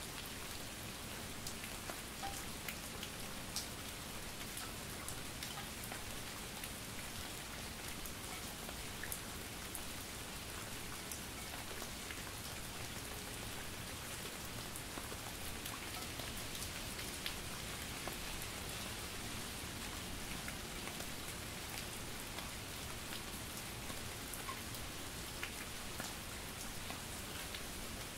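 Steady light rain and drizzle falling on a surface, with fine scattered drops ticking over an even hiss.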